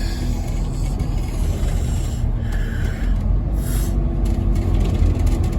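Scania N270UD OmniCity double-decker bus engine running, a steady low rumble heard from inside the passenger cabin, with a brief hiss about halfway through.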